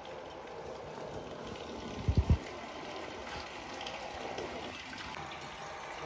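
Rainwater running and trickling steadily into a collection container. About two seconds in come three quick low thumps close together.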